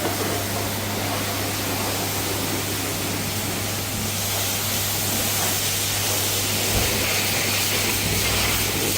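Pressure washer spraying water in a steady hiss, over a steady low hum.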